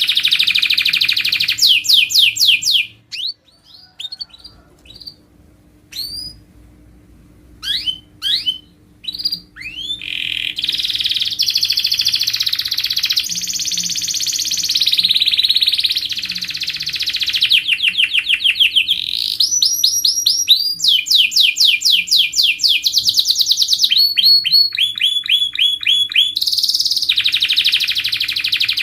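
Domestic canary in full song: fast trills and rolls of rapidly repeated notes. About three seconds in, the song breaks into several seconds of scattered single chirps, then the rolls resume and carry on.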